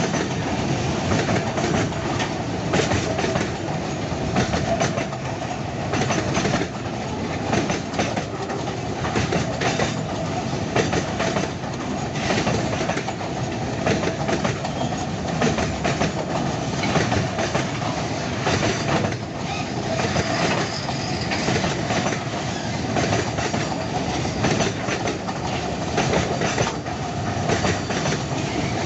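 Long string of loaded freight wagons rolling past, wheels clacking over the rail joints in an irregular stream of clicks over a steady rumble, with a thin steady squeal under it.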